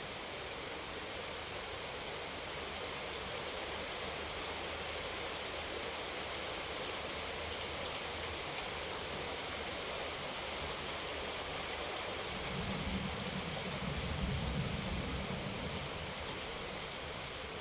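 Steady heavy rain falling. About two-thirds of the way through, a low rumble of distant thunder swells for a few seconds and fades.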